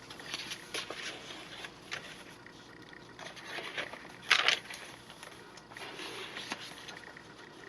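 Paper rustling and scraping as the pages and inserts of a handmade junk journal are handled and turned, with the loudest rustle about four and a half seconds in.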